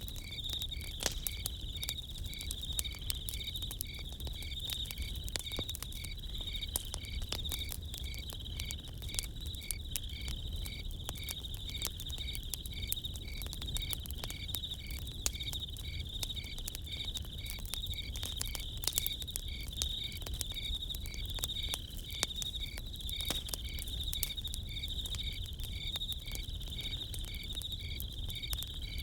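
Crickets chirping in a steady high trill, with a second, evenly pulsing insect call beneath it. Over this, a campfire crackles with scattered sharp pops and a low rumble.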